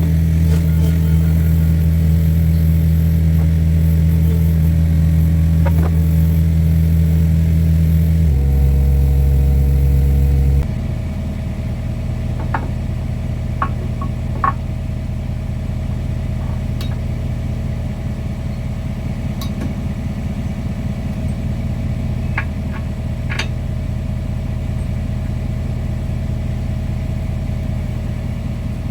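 Diesel engine of a John Deere 50P compact excavator running with a steady low hum; its pitch shifts about eight seconds in. A few seconds later the sound changes abruptly to a quieter engine hum with a few sharp clicks.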